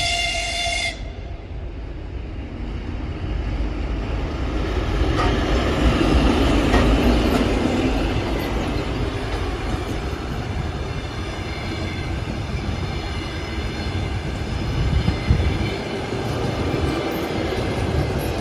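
TEP70 diesel passenger locomotive with its 16-cylinder engine, hauling a train of coaches past. A horn note cuts off about a second in, and the engine is loudest around six to eight seconds in. After that, the wheels of the coaches rumble and clatter on the rails, with a faint high squeal.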